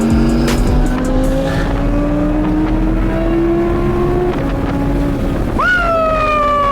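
Sports car engine accelerating, its note rising steadily in pitch. About two-thirds of the way through, a higher, sharper tone cuts in suddenly and slides slowly downward.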